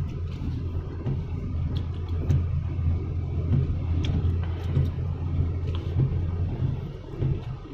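Vehicle engine running steadily on the move, with a low hum and road rumble and a few faint ticks and rattles.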